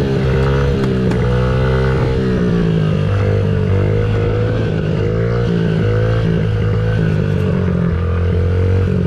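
Dirt bike engine running under way, its pitch rising and falling repeatedly as the throttle is worked.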